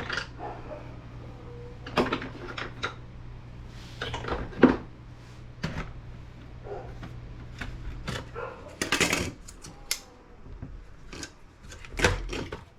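Laptop casing and parts being handled during hand disassembly: scattered clicks, knocks and light clattering of plastic and metal pieces, with a louder clatter about nine seconds in and another near the end. A low steady hum runs underneath and stops about eight seconds in.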